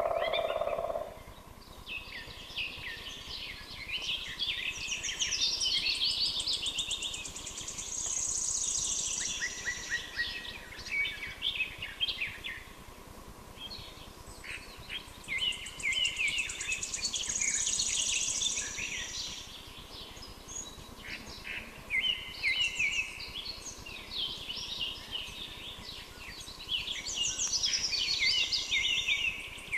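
Songbirds singing, a dense run of quick high chirps and trills that comes in waves with short lulls between.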